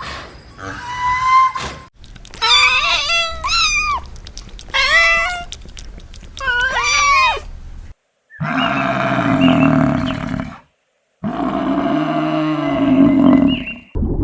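A cat meowing four times in short calls that bend in pitch, then two long, harsher drawn-out calls.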